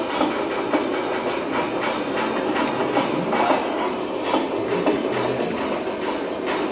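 Train running on the rails: a steady clatter of wheels on track with irregular sharp clicks over a continuous noise.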